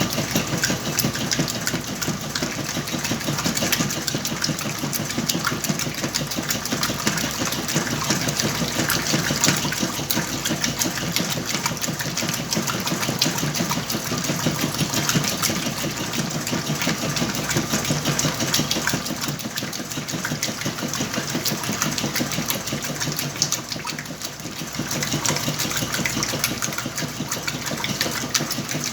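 Whirlpool washing machine running its wash cycle with a load of blankets: the motor drives the agitation and the water churns steadily, easing briefly near the end.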